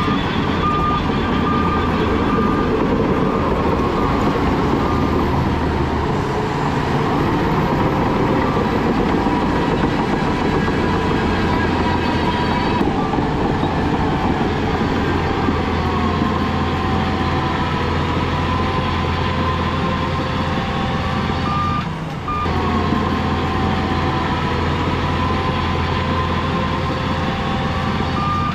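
Heavy diesel earthmoving machinery running steadily under load, a deep engine hum with a wavering mechanical whine over it, briefly interrupted about three-quarters of the way through.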